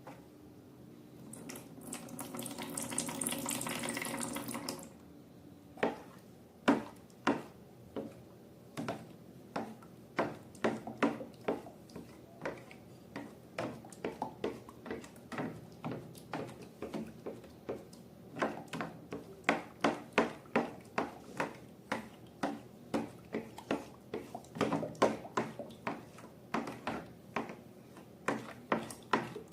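Liquid pours for a few seconds, then slime is stirred and squished in a long run of sharp wet clicks and pops, often two or more a second.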